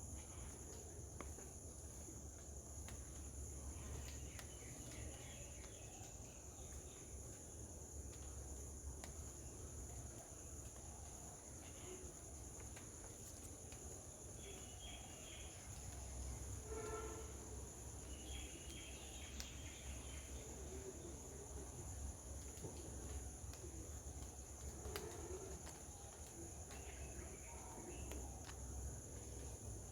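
A steady high-pitched insect drone runs throughout, with scattered short bird calls over it. One fuller, pitched call comes about 17 seconds in, and a low rumble sits underneath.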